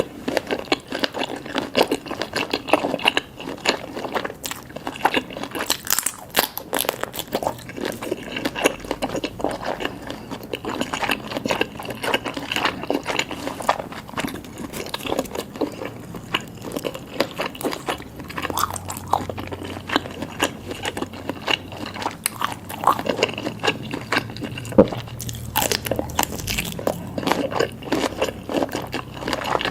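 Mouth sounds of seafood being eaten: continual biting and chewing, with many small irregular smacks and clicks.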